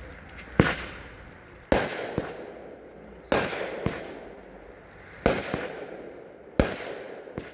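Consumer firework cake firing its shots: five loud reports a second or two apart, each trailing off in a fading hiss, with a few smaller pops between them.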